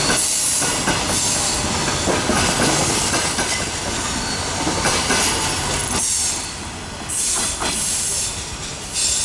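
Passenger coaches of a train rolling past on the rails, wheels clattering over the rail joints with some wheel squeal. The noise drops and thins out about six seconds in.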